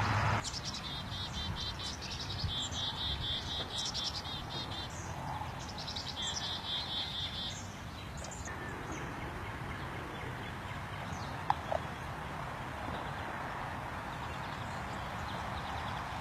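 Birds singing: a fast trill of repeated high notes comes in two bouts over the first half, with scattered higher chirps, over a steady background hiss. About eleven seconds in there are two brief sharp clicks.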